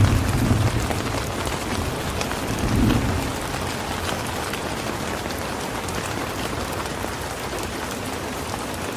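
Steady rain falling, an even hiss, with low rumbles of thunder: one dying away in the first second and another swelling briefly about three seconds in.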